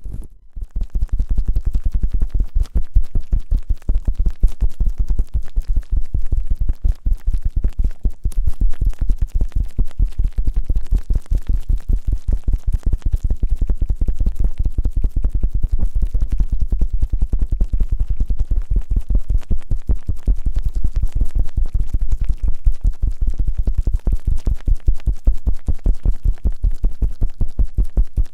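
Fast ear-cleaning ASMR sounds on microphone ears: rapid rhythmic scraping and rubbing, many strokes a second with a deep rumbling low end, after a brief dip just after the start.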